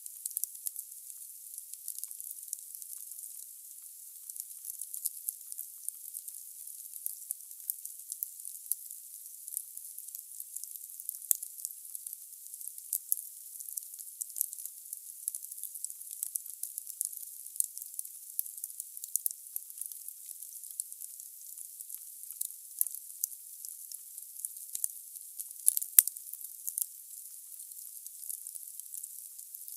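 Wood fire crackling in a fireplace: a thin, steady hiss with a dense run of sharp pops and snaps, one louder snap about 26 seconds in.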